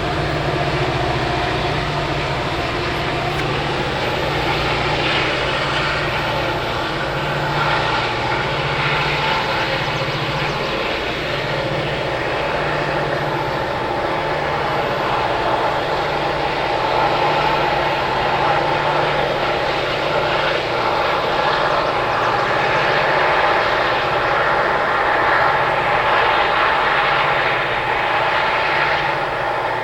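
Diesel freight locomotives working as a heavy freight train passes, a steady drone with a low throb that pulses about once a second.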